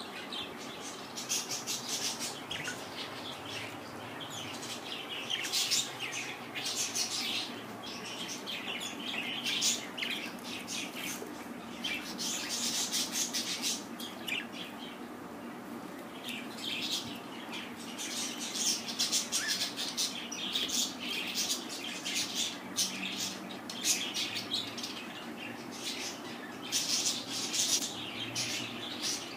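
Pet budgerigars chattering and chirping in repeated bouts of high-pitched warbling, each lasting one to a few seconds.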